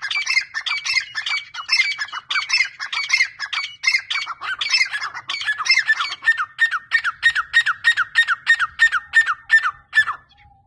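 Teetar (francolins) calling loudly in a rapid run of harsh repeated notes, about three a second. The run settles into a steady series of falling notes and stops shortly before the end.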